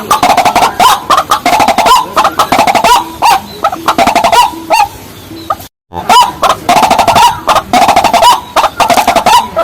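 Rapid, loud, repeated croaking calls of rails of the kind sold as bird-call recordings: white-breasted waterhen and watercock, with sharp clicks throughout. The sound cuts out completely for a moment about six seconds in, then resumes.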